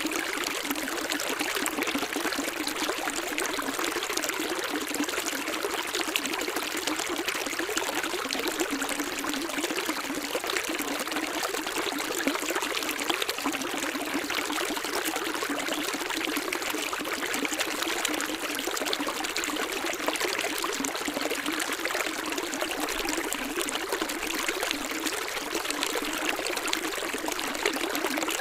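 Water flowing and splashing steadily, like a stream or small cascade, an even rushing sound with no breaks.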